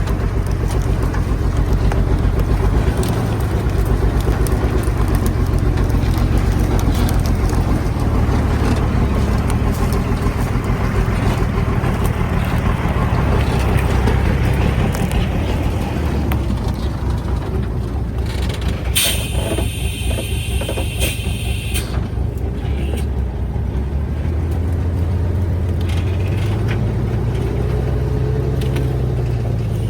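Small truck's engine running steadily with a pulsing low rumble as it climbs carrying a load of wood. About two-thirds of the way through, a high-pitched squeal lasts about two seconds, and near the end the engine note rises.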